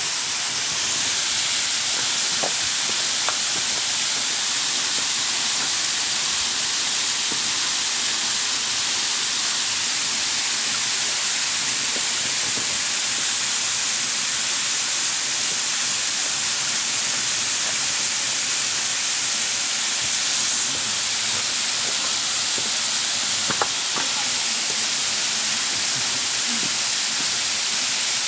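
Waterfall water rushing: a steady, unbroken hiss, with a few faint clicks.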